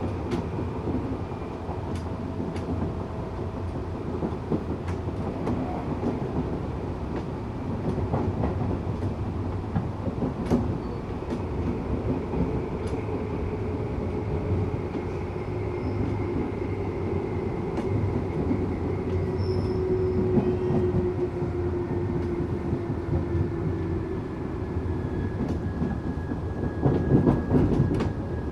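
Tokyu 8500 series electric train with Toyo-made traction motors running along the line. Wheels rumble steadily on the rails with scattered joint clicks, under a motor whine that slowly falls in pitch through the middle. A louder burst of clatter comes near the end.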